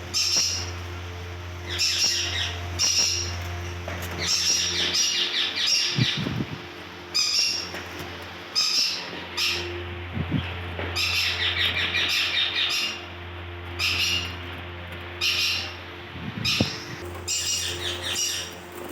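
Indian ringneck parakeets calling in repeated harsh, shrill squawks that come in bursts every second or two, over a steady low hum.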